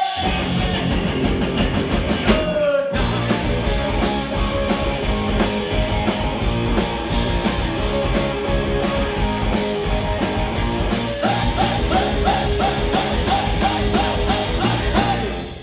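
Rock band playing live: drum kit with crashing cymbals, electric guitar and bass in a loud instrumental passage. The full band comes in harder about three seconds in, and a repeated high guitar figure runs over the last few seconds before the music stops at the end.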